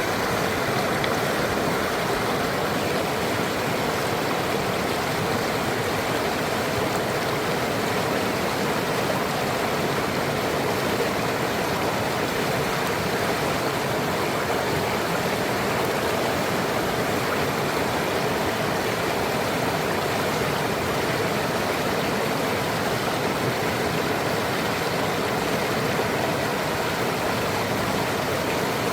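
Donggang River water flowing in a steady, even rush with no change in level.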